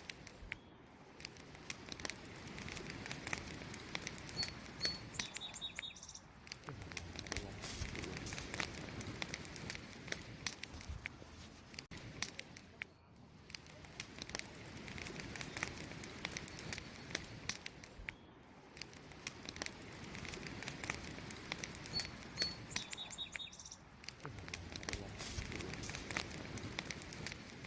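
Wood campfire crackling with many sharp pops. A short bird chirp of a few quick notes comes twice, a few seconds in and again about twenty-two seconds in.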